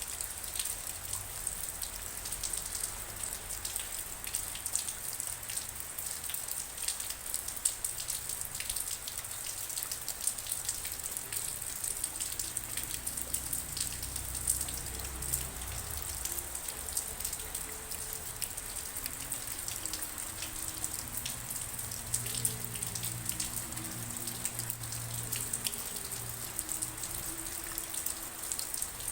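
Steady rain falling, an even hiss broken by many distinct drop hits.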